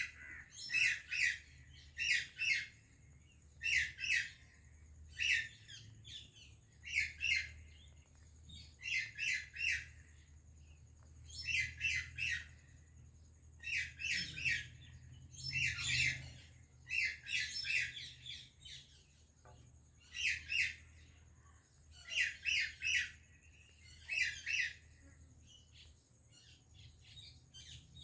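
Parrot calling in short bursts of two to four quick, shrill notes, repeated every second or two. The calls stop shortly before the end.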